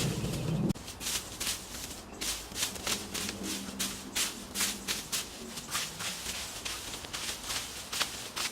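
Footsteps crunching and shuffling through dry leaf litter, about two to three crisp rustles a second. A louder low hum cuts off suddenly under a second in.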